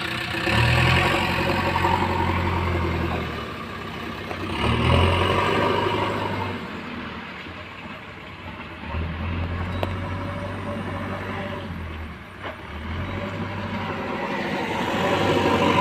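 Heavy diesel engine running and revving up briefly about half a second in and again near five seconds, with steadier running between.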